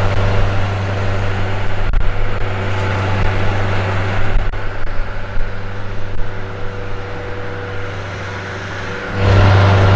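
Motor engine running steadily close by, a steady low hum with a few faint knocks over it; it gets louder about nine seconds in.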